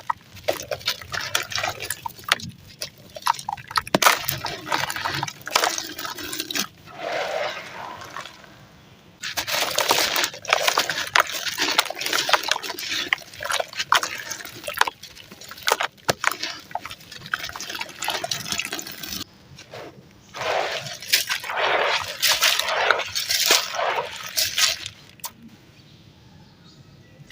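Crumbly, ash-like powdery texture being crushed and crumbled, giving dense, irregular crackling and crunching with softer, muffled squishy spells in between.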